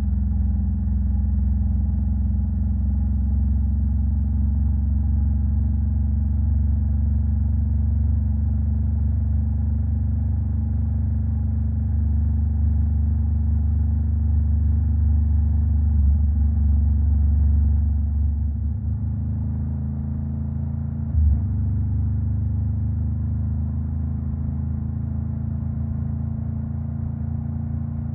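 Honda Rebel 500's parallel-twin engine running through a Vance and Hines aftermarket exhaust at steady revs, settling to a slightly lower, quieter note about eighteen seconds in. A brief thump sounds about twenty-one seconds in.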